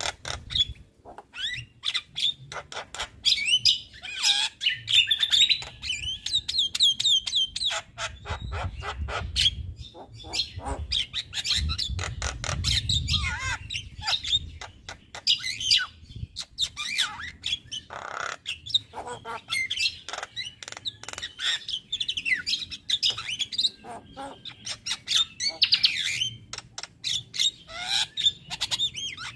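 Male Javan myna (jalak kebo) singing a long, varied song: rapid sharp clicks and harsh squawks mixed with wavering whistled warbles.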